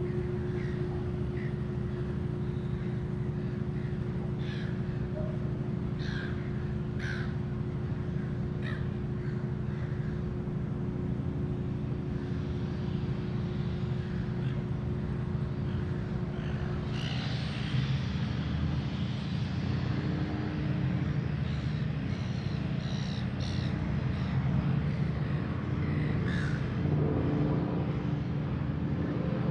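Short, repeated bird calls over a steady low hum.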